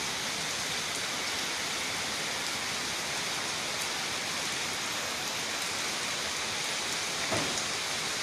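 Heavy rain pouring down, a dense, steady hiss of rain striking roofs, trees and pavement. There is a brief bump about seven seconds in.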